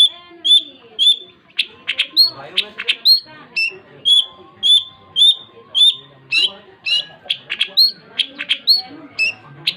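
Long-tailed shrike (cendet) singing vigorously: short clear high whistled notes repeated about twice a second, mixed with harsh rasping notes.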